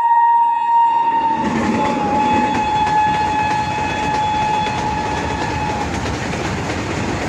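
Train horn sounding one long, steady blast that stops about six seconds in, over the rumble of the train running along the track, which swells about a second and a half in.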